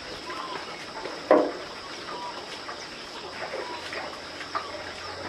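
Farmyard background: chickens and small birds calling now and then, with one louder short call about a second in, over a steady high-pitched hum.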